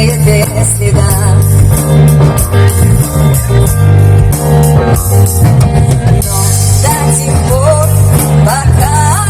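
Rock song played by a band with drums and bass under a singing voice; the vocal line glides upward near the end.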